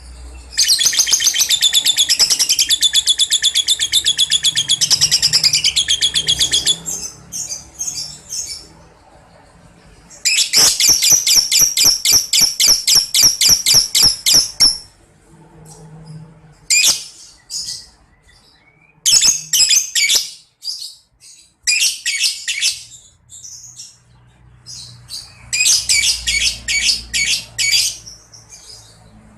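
Lovebird ngekek: long, rapid runs of sharp high chattering notes. One run lasts about six seconds and another about four, followed by several shorter bursts with pauses in between.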